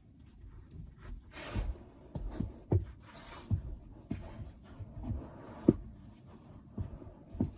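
Irregular soft knocks and thumps with rustling, as of things being handled and set down, with two short hissing rushes in the first half.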